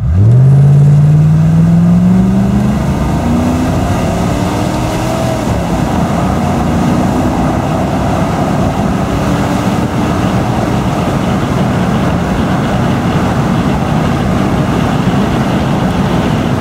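A 1995 Land Rover Discovery's 3.9-litre V8 accelerating hard from a standstill, heard from inside the cabin. The revs climb quickly from idle, and the pitch rises, then falls back at each gear change, before settling into a steady loud engine note. The exhaust runs with its centre silencer removed.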